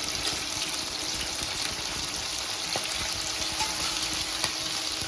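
Steamed chicken pieces frying in hot oil in a pan, a steady sizzle, with a faint steady hum starting about halfway through.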